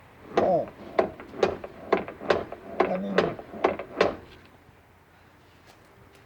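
A run of about nine sharp knocks, roughly two a second, some with a brief ring, stopping about four seconds in.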